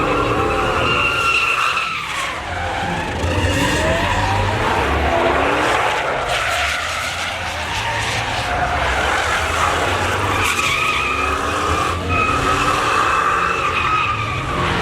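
A pickup truck doing a burnout: tires squealing in high sustained tones over an engine revving up and down.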